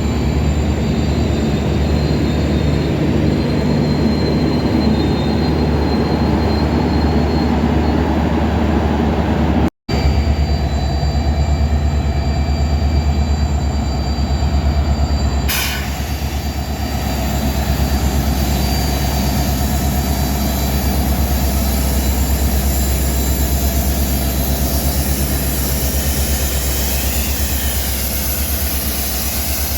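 Heavy diesel locomotive running with a steady low engine drone and faint thin high squealing tones above it. The sound breaks off for an instant about ten seconds in, and a broad hiss joins the drone at about fifteen seconds.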